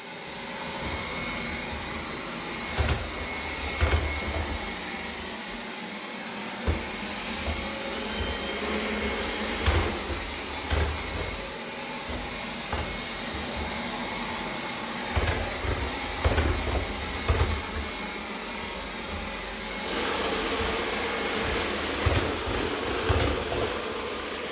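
iRobot robot vacuum running with a grinding noise: a steady motor whir broken by irregular low knocks. About twenty seconds in, the sound grows fuller.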